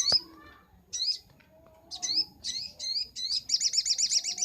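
Sogok ontong (ruby-cheeked sunbird) singing: sharp, high, separate chirps, then from about three and a half seconds in a fast trill of repeated notes, about eight a second. A sharp click sounds right at the start.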